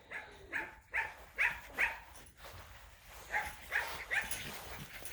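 Young Labrador Retriever puppies yipping: a quick run of short, high yips, a pause of about a second, then a few more.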